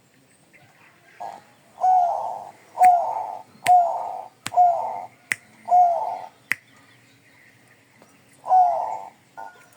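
Zebra dove of the Bangkok song strain (perkutut bangkok) cooing: a run of short coos about one a second, each dipping in pitch. A pause follows, then a last coo near the end. Sharp clicks are heard in between the coos.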